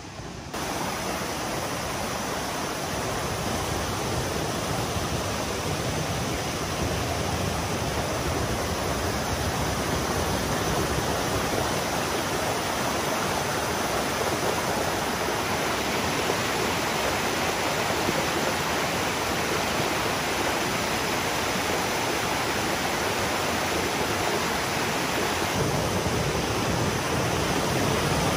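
Waterfall: a steady, loud rush of falling water that sets in abruptly just after the start.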